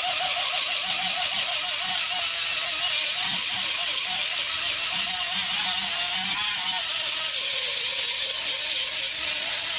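Power grinder buffing tyre rubber around a puncture on the inside of a loader tyre, preparing it for a patch. It runs steadily with a hissing, high-pitched whir, and its pitch wavers and sags slightly near the end as it bears on the rubber.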